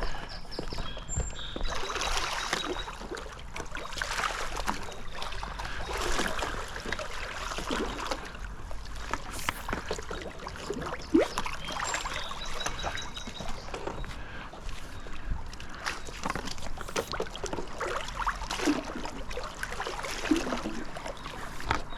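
Pool skimmer net on a pole sweeping through the water surface, with repeated water swishes and splashes roughly every two seconds.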